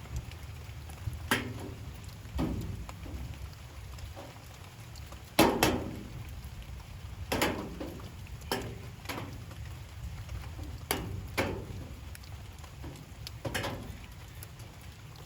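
Light rain falling steadily, with heavy drops striking at irregular intervals, about ten distinct plinks, each ringing briefly; the loudest comes about five seconds in.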